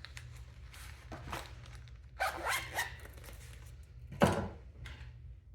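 A dog barking: three quick barks a little after two seconds in, then one louder bark about four seconds in.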